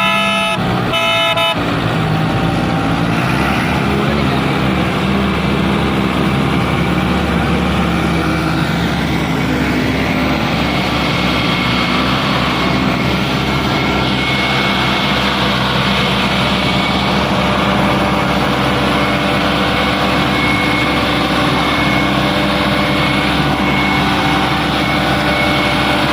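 Fiat 640 tractor's diesel engine running hard at a steady, high speed, with a vehicle horn sounding twice near the start.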